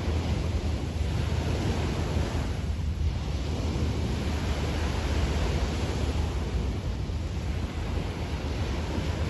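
Small sea waves washing onto a beach, the wash swelling and easing every few seconds, with a low rumble of wind on the microphone.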